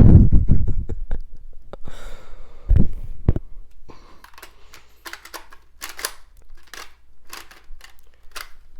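Handling noise from the plastic parts of a Shark Lift-Away vacuum cleaner being fitted back together. There is a heavy knock at the start, two more knocks about three seconds in, then a run of light clicks and rattles.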